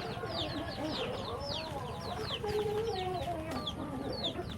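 A flock of backyard chickens clucking, with many short, high, falling peeps repeating throughout over lower wavering calls.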